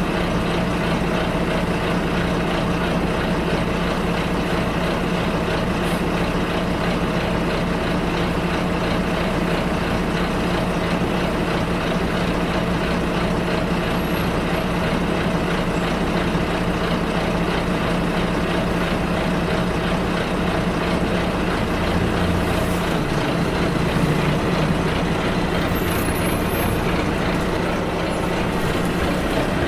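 Bus engine running with a steady hum and road noise, heard from inside the bus. About 23 seconds in, the engine note shifts for a couple of seconds before settling again.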